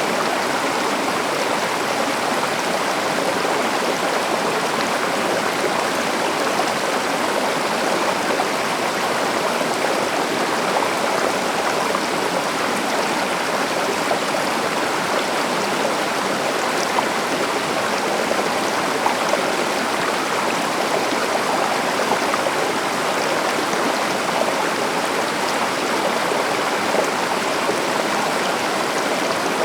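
River water running steadily over rocks, a continuous rushing flow with small splashes and gurgles in it.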